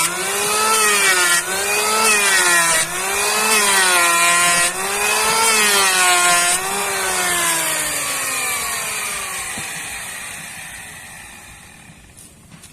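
Handheld electric power tool cutting rib material for the boat. Its motor pitch dips and recovers with each push through the cut for about seven seconds. The tool is then switched off and the motor winds down, its pitch falling and its sound fading out near the end.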